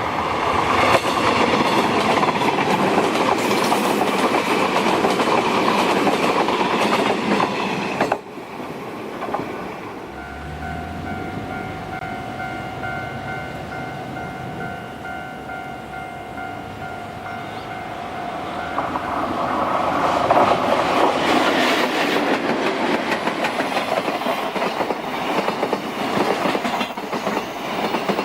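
381 series electric train passing close by, its wheels clattering over the rail joints. The loud running noise cuts off abruptly about 8 seconds in, leaving a quieter stretch with a steady hum. Then, from about two-thirds of the way through, a train's running noise builds up loud again.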